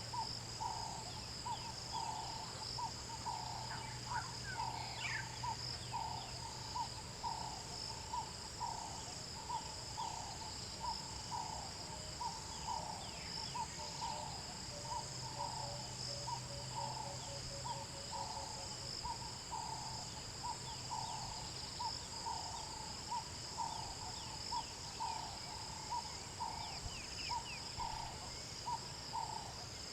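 Night-time bush chorus: steady high trilling of crickets or other insects, with a short call repeated a little more than once a second, and a faint low steady hum beneath.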